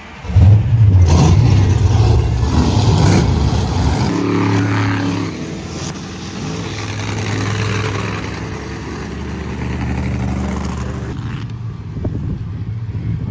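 Monster truck engine revving hard, starting suddenly about half a second in, then running on more steadily and a little quieter.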